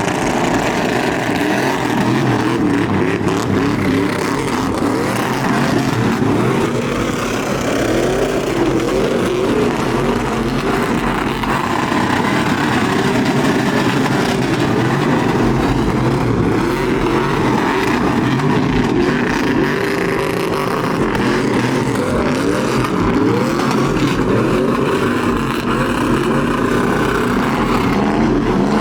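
Truck engines running hard and revving, their pitch rising and falling.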